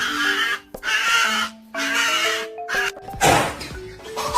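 A dog's drawn-out vocal sounds in three stretches, then a harsher burst near the end, over background music with a simple stepped melody.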